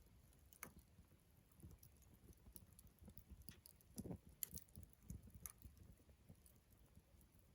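Faint crackling of a wood campfire: scattered small pops and ticks at irregular intervals, with a slightly stronger pop and low thump about four seconds in.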